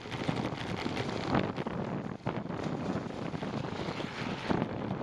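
Wind rushing and buffeting over the microphone of a cyclist riding, with irregular gusty thumps.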